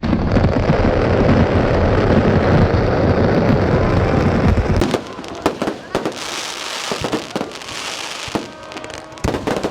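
Fireworks display: a dense, continuous barrage of blasts that cuts off suddenly about five seconds in. It is followed by separate sharp bangs and a crackling hiss.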